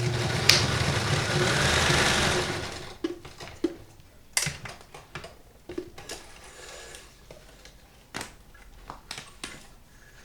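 Kenmore 158.19311 sewing machine running fast, stitching steadily, then stopping about three seconds in. Scattered light clicks and knocks follow.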